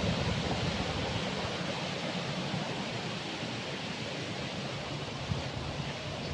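Running water rushing steadily, a stream or channel flowing down toward the reservoir.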